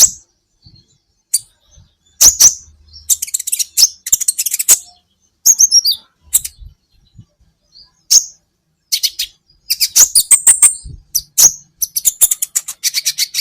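Kolibri ninja sunbird singing: bursts of sharp, high-pitched chirps and fast trills in irregular phrases with short pauses between them.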